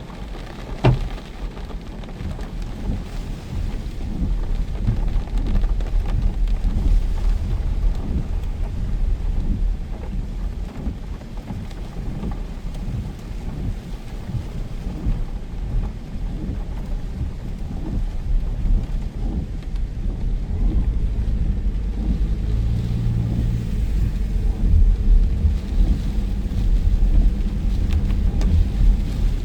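Heavy rain pouring down in a storm, under a steady deep rumble of wind buffeting the microphone. A single sharp knock sounds about a second in.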